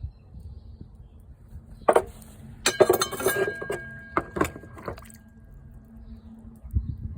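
Sharp clinking knocks of hard material striking hard material. A single knock comes about two seconds in, then a quick cluster with brief ringing tones, then a few more single knocks.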